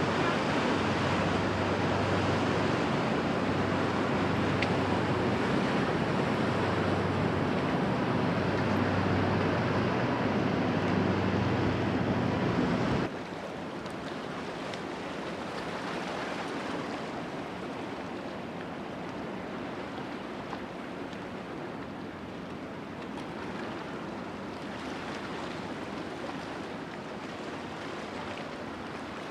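A passing river ship's diesel engine hums steadily over rushing water and wind. About halfway through the sound cuts off suddenly to quieter water wash and wind without the engine hum.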